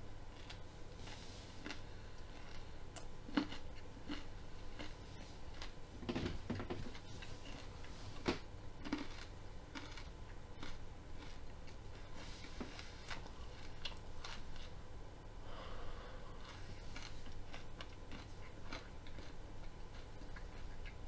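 A person chewing a mouthful of raw broccoli, with irregular crunches and clicks.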